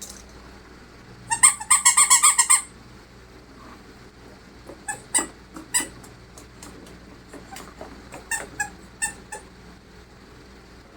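A quick run of squeaks lasting about a second, then scattered light taps and clicks: plastic being squeezed and handled, most likely the water-filled plastic bag holding the toys.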